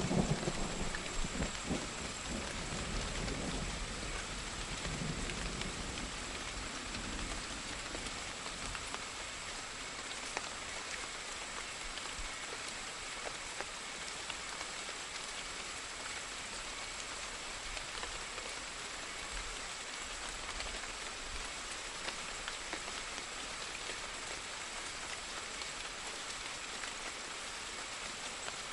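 Steady rain falling, an even hiss of drops, with the tail of a low thunder rumble dying away over the first few seconds.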